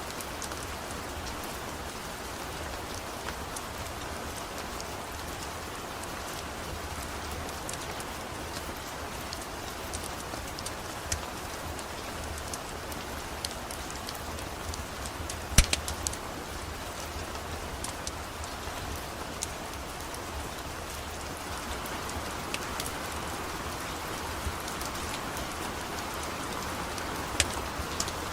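Steady rain falling, with sparse sharp crackles and pops from a wood fire. The loudest is a quick cluster of cracks a little past halfway.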